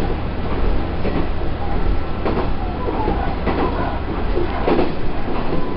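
Matsuura Railway diesel railcar running along the line, heard from inside the cab: a steady low engine and running drone, with wheels knocking over rail joints about once a second and a faint high whine that wavers in pitch.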